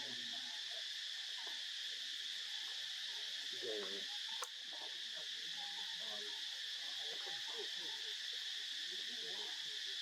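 Steady high-pitched insect drone of crickets or cicadas, with faint scattered chirps over it. A louder short call comes about four seconds in, followed at once by a sharp click.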